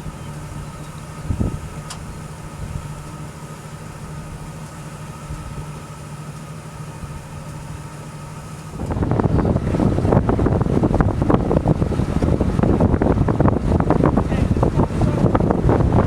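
A steady low vehicle hum, then about nine seconds in an abrupt change to loud, gusty storm wind buffeting the microphone.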